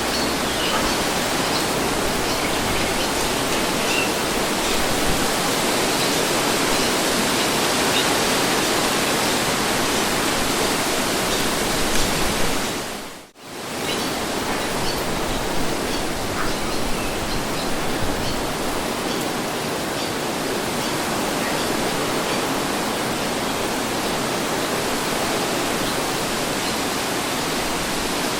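Steady wind rushing as an even, unbroken noise. About halfway through it fades away almost to silence for a moment, then comes straight back.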